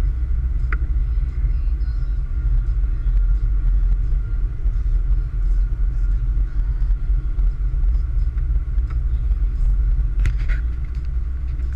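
A car driving, heard as a steady low rumble of engine and road with a faint steady whine above it. A few light clicks or rattles come just under a second in and again near the end.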